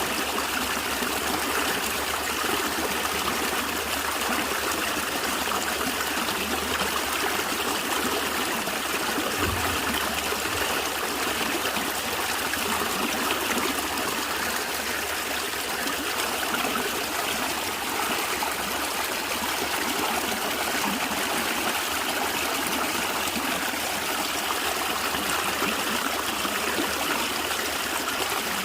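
Stream water running and gurgling over stones, a steady rushing trickle without let-up.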